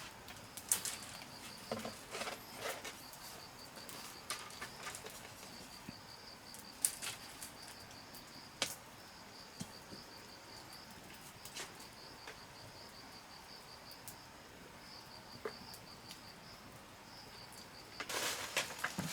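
An insect trilling steadily in a fast, even pulse, high in pitch, with a handful of sharp knocks and clicks scattered through it and a burst of rustling near the end.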